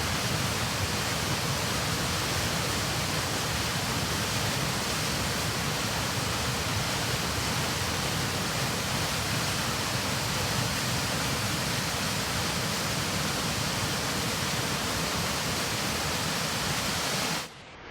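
Steady, loud rush of a waterfall on the Nyamindi River, cutting off suddenly just before the end.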